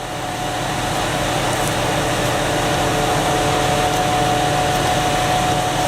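Large forestry wood chipper running, a steady whine over a rushing noise that builds up over the first second or so and then holds steady.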